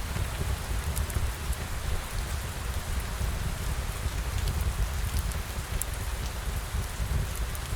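Steady rain falling, with a deep low rumble underneath and scattered faint ticks.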